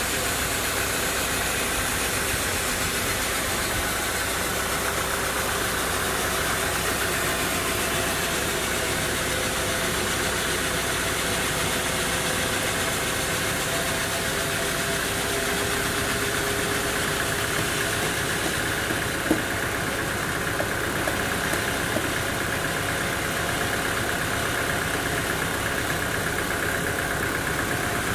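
Sawmill machinery's engine running steadily, with one sharp tick about two-thirds of the way through.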